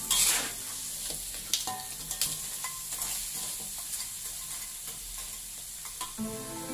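Blue swimmer crab pieces sizzling in an aluminium wok as a metal spatula stirs them, with a louder burst of sizzle at the start and sharp scrapes and clicks of the spatula against the pan. Background music comes in near the end.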